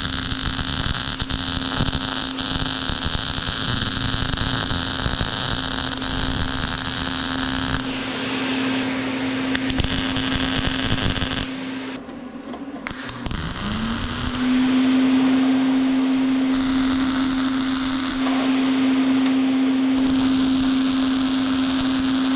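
Steady hissing and crackling of metalworking at the bench. A motor's hum stops about twelve seconds in and spins back up about a second and a half later.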